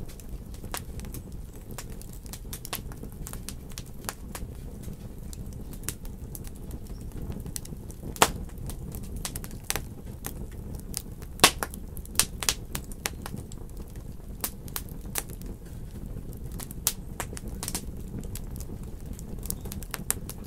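Wood fire in a fireplace crackling, with irregular sharp pops over a steady low rumble; the loudest pops come about 8 and 11 seconds in, followed by a quick run of smaller ones.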